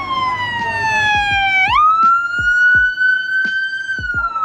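A wailing siren, its pitch sliding slowly down, jumping back up a little under two seconds in, then rising and falling again.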